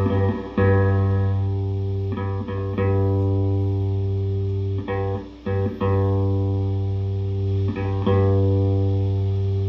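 1974 Fender Precision Bass played through a 1973 Fender Quad Reverb guitar combo amp on its vibrato channel, with Weber Legacy speakers. It plays a handful of plucked low notes, each left to ring for a second or more before the next pluck.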